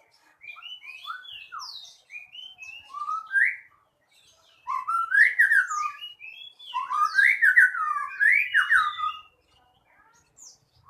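Caged contest songbird singing in fast, varied whistled phrases with quick rising and falling notes. There is a pause near the middle, then a louder, busier phrase.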